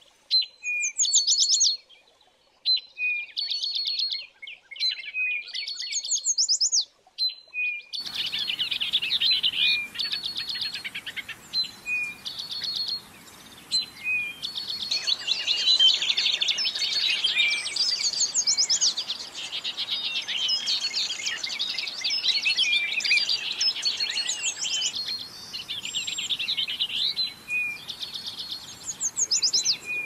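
Songbirds chirping and singing in short repeated phrases of quick high notes and falling whistles. About eight seconds in, a faint steady hiss of background noise joins underneath the birdsong.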